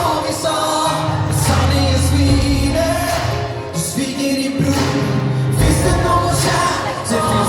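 Live pop song performance: sung vocals over a full band with a heavy, steady bass.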